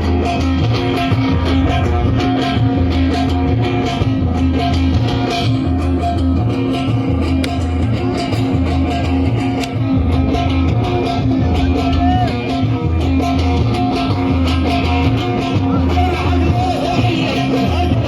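Live Sudanese band music played loud: electric guitar and bass over a steady, repeating beat, with some singing.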